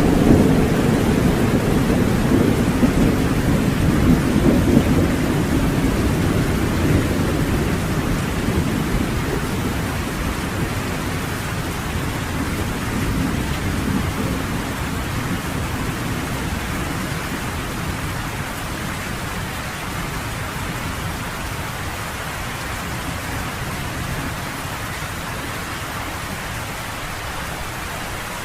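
Steady rain falling, with a long rolling rumble of thunder that fades away slowly over the first half or so, leaving the even hiss of the rain.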